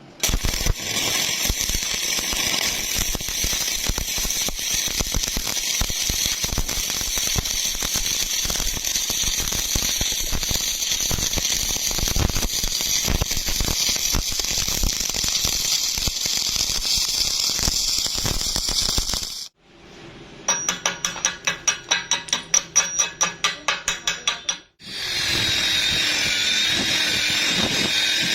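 Stick welding arc crackling and hissing steadily for about nineteen seconds, then cutting off. A run of rapid, even clicks follows, and near the end a power tool starts up with a steady whine.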